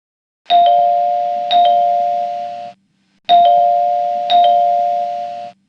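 Two-note ding-dong chime sounding twice. Each ding-dong is two struck, ringing tones about a second apart that fade slowly, and the second ding-dong follows after a short gap.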